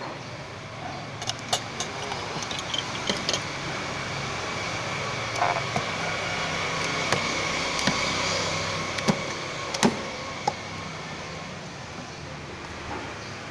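Scattered sharp clicks and light knocks, like small parts and tools being handled, over a steady low mechanical hum, with a noise that swells through the middle and then fades like a passing vehicle.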